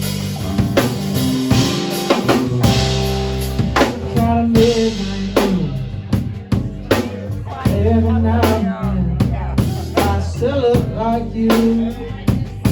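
Live rock band playing an instrumental passage: a drum kit hitting steadily with kick, snare and rimshots over sustained bass guitar notes, with a melodic line sliding in pitch above.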